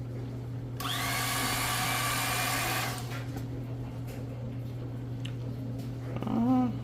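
An electric carving knife runs for about two seconds with a steady motor whine as it cuts into a deep-fried turkey. A brief voice sound follows near the end, over a steady low hum.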